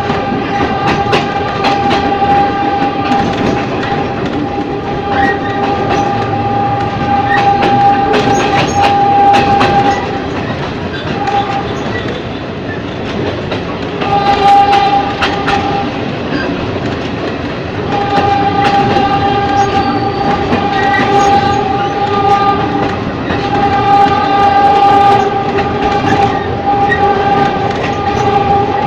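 Ex-JR 203 series electric multiple unit running, its armature chopper control giving a steady high whine that drops out for a few seconds twice and comes back, over the clickety-clack of the wheels on rail joints.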